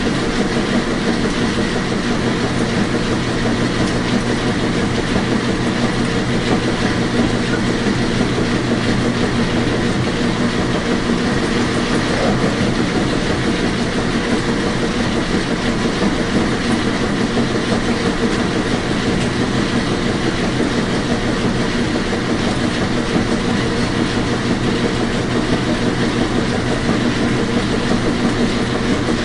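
Washing machine running: a steady, even mechanical rumble with a faint constant hum in it.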